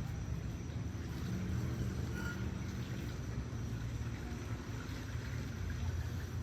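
Steady low outdoor rumble with no distinct events, like wind on the microphone mixed with distant traffic, with a faint steady high tone above it.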